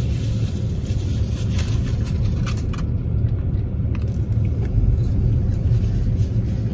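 Steady low rumble of a car idling, heard from inside the cabin, with a few faint clicks over it.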